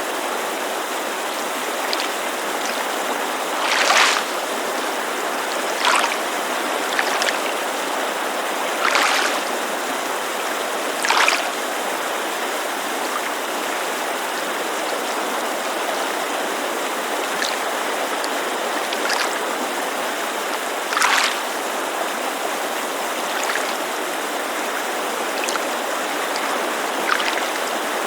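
Steady rush of a mountain creek, with small waves lapping against a lakeshore in short splashes every few seconds at an uneven pace.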